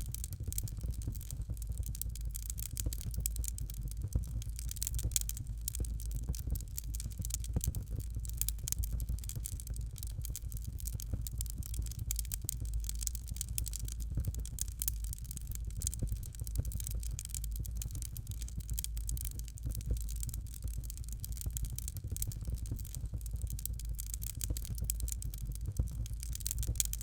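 Fireplace fire crackling steadily: a dense run of fine, irregular crackles and small pops over a constant low rumble.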